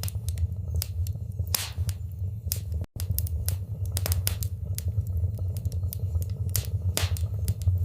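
Fire burning in a fireplace, crackling and popping irregularly over a steady low rumble of flames. The sound cuts out for an instant about three seconds in.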